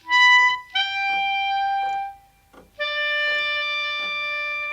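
A musical instrument playing three held notes, each lower than the last: a short high note, then a longer one, then a long low note held near the end.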